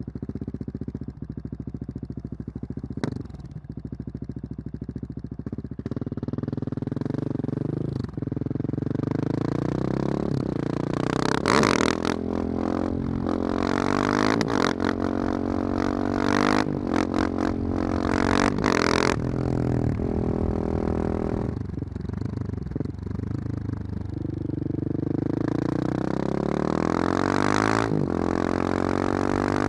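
Husqvarna 701's single-cylinder engine running loudly through a Wings aftermarket exhaust. It thumps evenly at low revs for the first few seconds, then revs up and down repeatedly with sharp cracks in the middle stretch.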